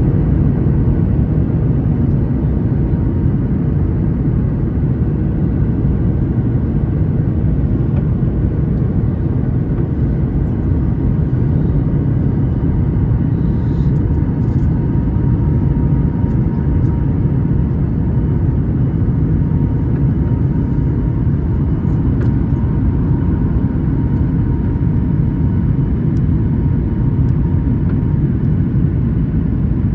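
Steady in-cabin noise of a Boeing 737 MAX 8 on its landing approach: a deep, even rumble of CFM LEAP-1B engines and airflow with a faint steady hum, and a few light ticks around the middle.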